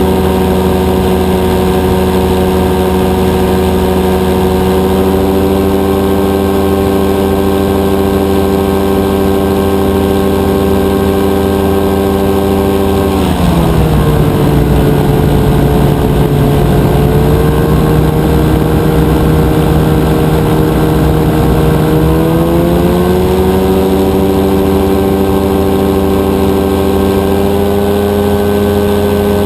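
Rotax 582 two-stroke twin engine of a powered parachute running steadily in flight. About halfway through its revs drop and the note goes lower, then climbs back up about nine seconds later.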